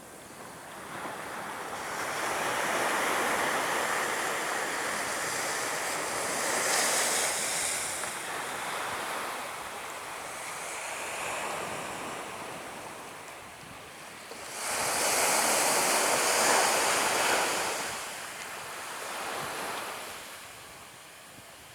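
Surf breaking on a beach, coming in swells with the loudest wave crashing suddenly about fifteen seconds in, along with wind buffeting the microphone.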